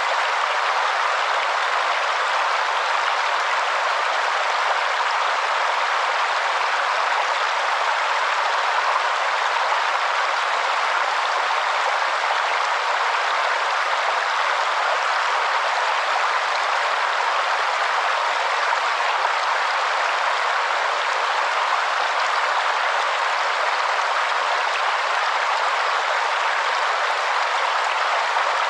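Waterfall: a steady, unbroken rush of falling water, mostly in the middle and upper range with almost no deep rumble.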